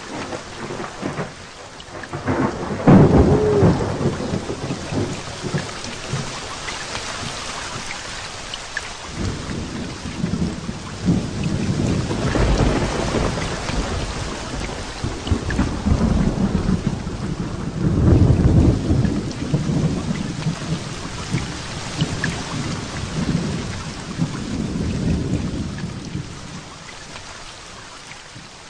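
Heavy rain falling steadily in a thunderstorm. A sharp thunderclap comes about three seconds in, and from about nine seconds on long rolling thunder rumbles and swells, loudest a little past the middle, before it fades near the end.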